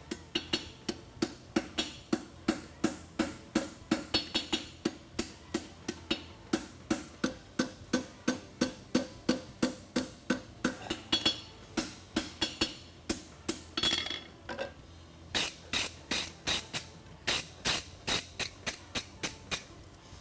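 Blacksmith's hammer striking a hot steel concave horseshoe bar on an anvil, about three blows a second, forge-welding the scarfed ends together. There is a short hiss and a brief pause about two-thirds of the way through, after which the blows come louder.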